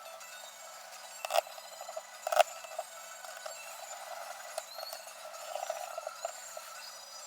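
Three sharp knocks or clicks, about a second apart: one at the start and one at each of about a second and a half and two and a half seconds in. Smaller ticks follow over a faint steady hiss.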